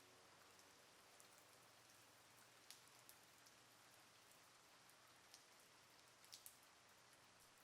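Light rain falling, a soft steady hiss with scattered single drops striking a surface, two in quick succession about six and a half seconds in.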